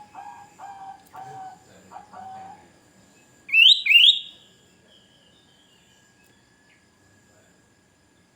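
Sooty-headed bulbul (kutilang) giving two loud, quick whistled notes about three and a half seconds in, after a run of lower, repeated bird calls in the first couple of seconds.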